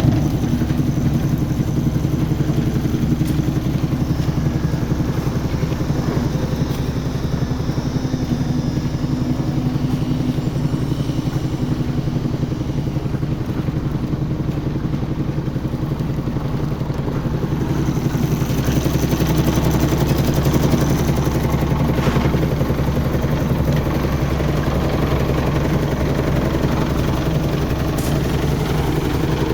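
Engine of the site's concrete machinery (mixer and lift machine) running steadily at a constant speed, a continuous low drone that grows a little louder about two-thirds of the way through.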